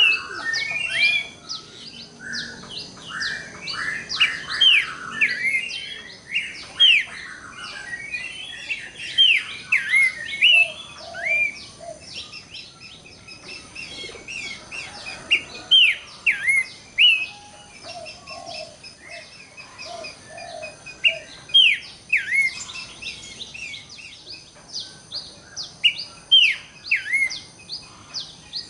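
Pelanduk semak (Horsfield's babbler) singing: a busy run of sharp, quick down-slurred whistles and chirps, densest and loudest in the first few seconds, then spaced out, with a few low short notes mixed in.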